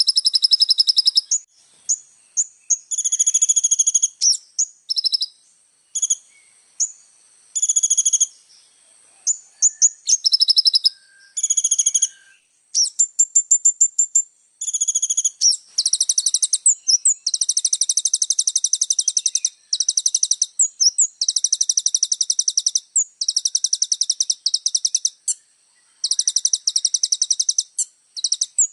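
Kolibri ninja (Van Hasselt's sunbird) singing: very high-pitched, rapid chattering trills and sharp chirps in short phrases, turning in the second half into longer trills of a second or two each, with short pauses between them.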